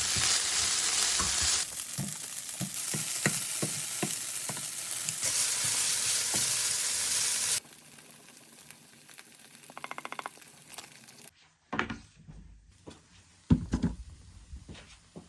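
Rice being stir-fried in a frying pan: a loud sizzle with a spatula scraping and tapping the pan. The sizzle stops a little past halfway, leaving a few quieter knocks and thumps.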